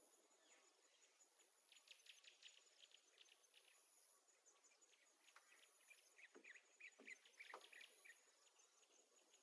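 Faint bird chirps and calls over a steady, pulsing high insect trill like a cricket's.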